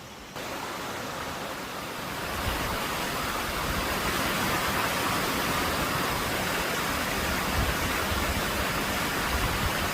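Waterfall and rapids rushing steadily, getting a little louder about two and a half seconds in.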